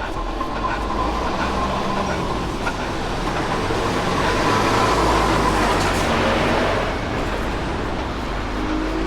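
A large vehicle passing close by, its running noise swelling to a peak about five seconds in and then easing off over a steady low rumble.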